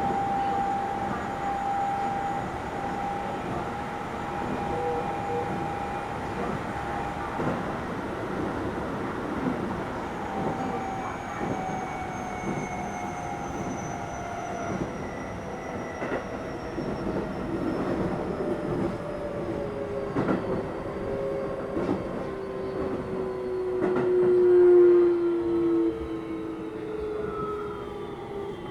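Keio 7000 series commuter train running, heard on board, its motor tones falling steadily in pitch as the train slows. A few knocks from the rails come from about halfway through, and a louder tone swells near the end.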